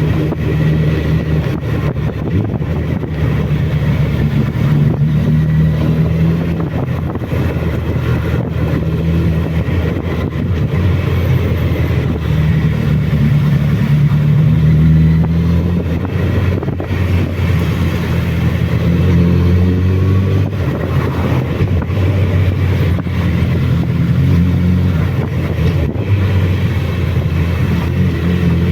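Suzuki Bandit inline-four motorcycle engine running on the move, its note rising and falling a few times.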